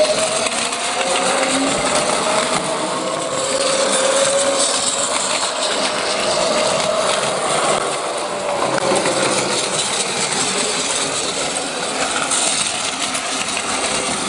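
A train running with a rattling clatter and a motor whine that slowly rises and falls in pitch.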